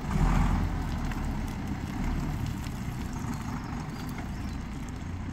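Vehicle engine running at low revs, a little louder just after the start, then steady.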